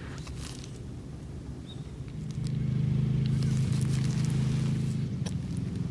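A low, steady engine-like hum comes in about two seconds in and carries on, with a few faint clicks over it.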